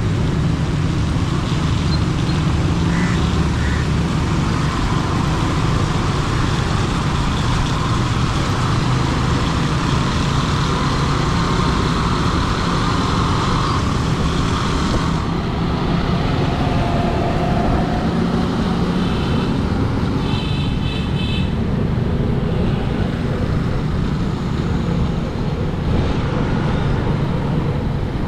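Steady road traffic noise with a heavy low rumble of engines and a high hiss that drops away about halfway through. A few short high-pitched beeps come about twenty seconds in.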